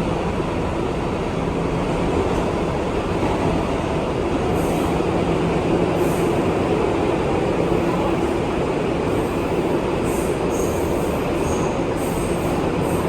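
NYC Subway R211A car running between stations: a steady rumble of wheels on rail with a constant motor hum. Short high-pitched wheel squeals come in several times over the last few seconds as the train nears the next station.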